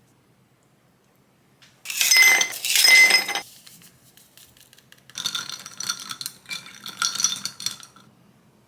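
Dishes and metal utensils clattering and clinking with a ringing edge, in two bouts: a loud one about two seconds in, then a quieter run of clinks from about five seconds in.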